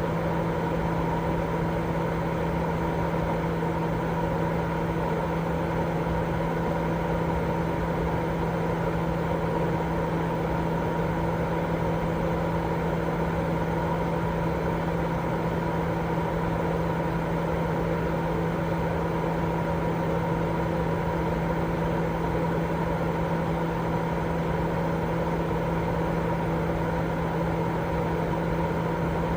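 Continuous baby-sleep white noise: an unchanging hiss, strongest in the lower range, with a steady hum and a few constant tones running through it.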